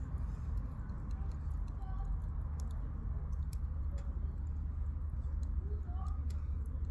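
Firewood burning in a campfire, crackling with scattered sharp pops over a steady low rumble.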